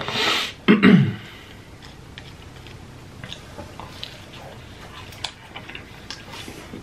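Close-miked eating of a sauce-dipped chicken nugget: two loud bites or mouth sounds in the first second, then soft, scattered chewing clicks.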